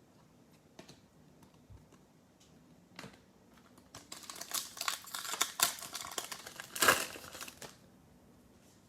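Plastic trading-card pack wrapper crinkling as it is torn open and handled. A few light clicks come first. About halfway through a dense crackle starts, lasts roughly three to four seconds and peaks near the end.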